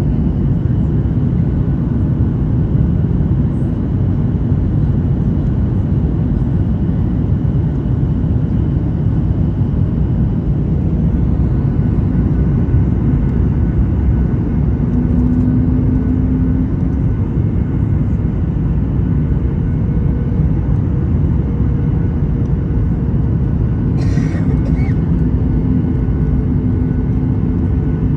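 Steady roar of jet engines and airflow heard inside the cabin of a Southwest Airlines Boeing 737 airliner, with a faint steady hum joining it partway through and a short click about 24 seconds in.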